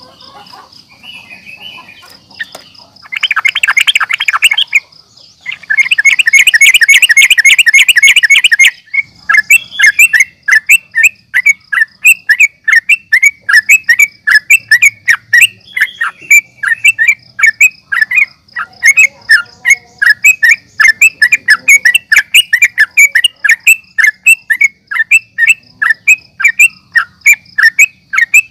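Yellow-vented bulbul (trucukan) singing an agitated, fighting song: faint scattered chirps at first, two harsh rattling bursts, then a fast run of sharp repeated chirps about three a second. A steady high-pitched whine runs underneath.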